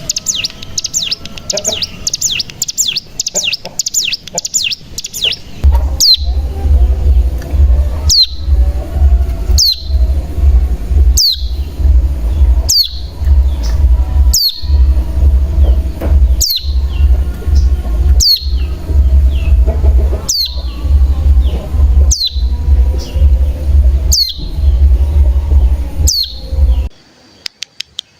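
Ciblek gunung song: a rapid, buzzing high trill for the first few seconds. It then switches to a single sharp, downward call note repeated about every one and a half seconds over a steady low hum, the typical calling sound used to lure other birds into song.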